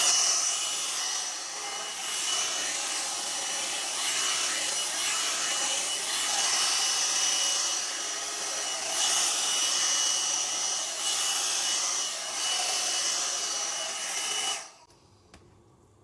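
Hairdryer brush running, a steady rush of air with a thin high whine, its level swelling and dipping as it is drawn through the hair. It is switched off suddenly near the end.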